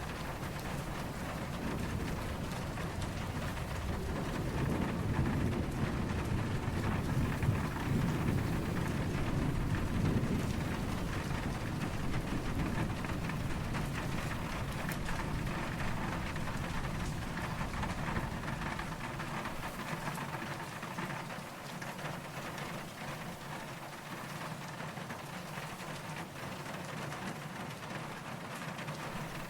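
Steady rain falling, with a low, distant rumble of thunder that swells in the first few seconds, is loudest about a third of the way in, and fades away about two-thirds through.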